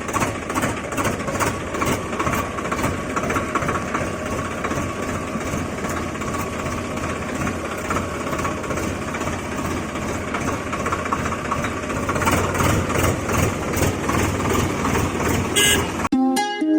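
A tractor engine running steadily, growing a little louder about three-quarters of the way through. Near the end it cuts off abruptly and plucked-string music begins.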